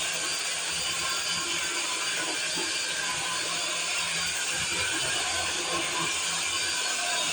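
Vacuum cleaner running steadily: a constant hiss with a low steady hum beneath.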